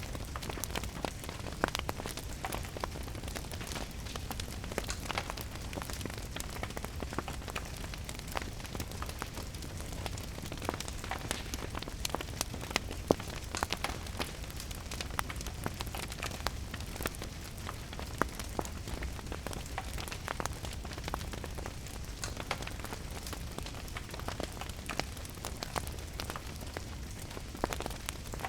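Wood fire crackling in a fireplace, with sharp pops scattered throughout, over the steady hiss of falling rain and a low rumble.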